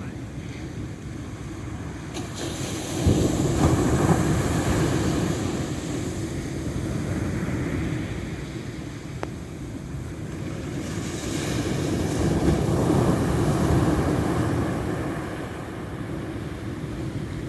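Ocean waves breaking and washing in on the shore, with two waves swelling up, one a few seconds in and one past the middle.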